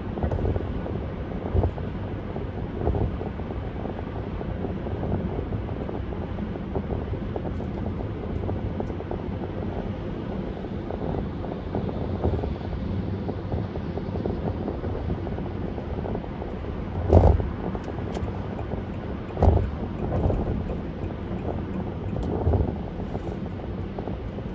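Steady road and wind noise of a car driving along a highway, with a few brief thumps, the loudest about two-thirds of the way through.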